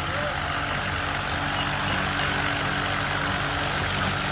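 Diesel vehicle engine idling steadily, an even low hum that holds without revving.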